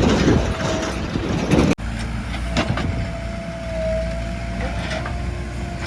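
Heavy diesel machinery engine running steadily, with a faint steady whine over it. The sound cuts out suddenly and briefly a little under two seconds in.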